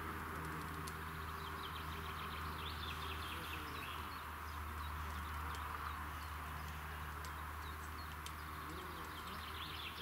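Outdoor ambience: small birds chirping in quick, high-pitched runs over a steady low hum.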